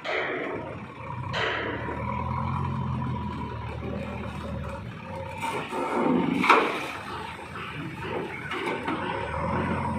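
A heavy vehicle engine runs with a steady low hum, broken by a few short sweeping noises and a louder sudden sound about six and a half seconds in.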